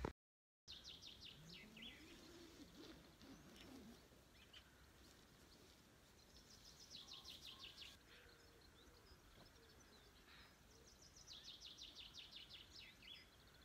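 Faint birdsong at dawn: a bird sings a fast trill of rapid, evenly repeated high notes three times, each run lasting about a second and a half, over quiet outdoor ambience.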